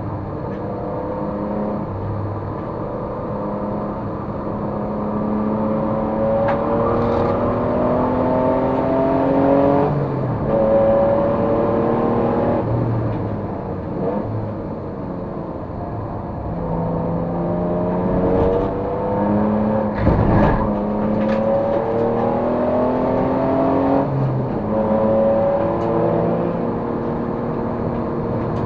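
Race car engine under load, its pitch climbing steadily and then dropping in steps as it shifts up and lifts, several times over. About two-thirds of the way through there is a single sharp knock.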